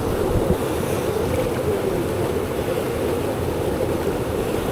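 Waterfall pouring into its pool, a steady rushing of water that does not change.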